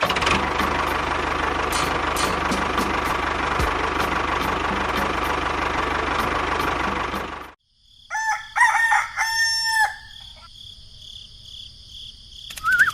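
A loud, steady machine noise runs for about seven and a half seconds, then cuts off suddenly. A rooster crows about a second later, over a steady high hum, and a short wavering call comes near the end.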